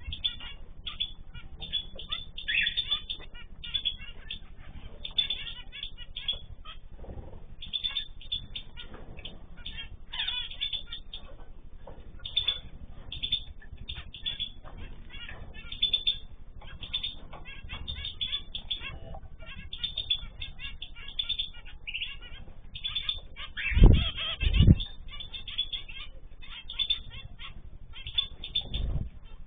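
Mixed flock of small cage birds (canaries, zebra finches, goldfinches and cockatiels) chirping continuously in quick, overlapping calls. Two loud thumps come close together about three-quarters of the way in.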